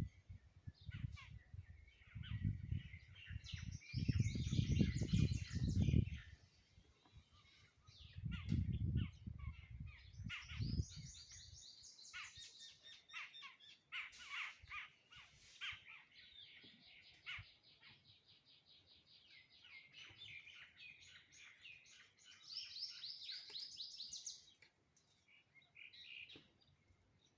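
Birds calling: repeated quick chirping trills, high-pitched, coming in runs of a second or two through the whole stretch. Low rumbling bursts sound under the calls in the first few seconds and again around eight to ten seconds in.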